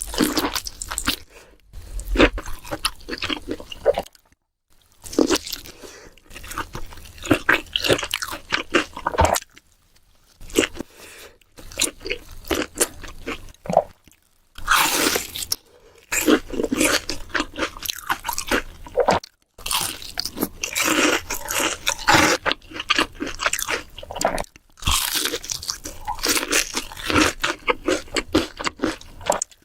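Close-miked eating: crunchy bites and chewing in runs of a few seconds, broken by short pauses.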